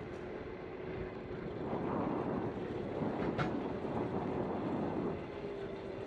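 Riding a Bird electric scooter: wind rushing over the microphone and small hard wheels rumbling on the pavement, under a faint steady motor hum. A single short click about three and a half seconds in.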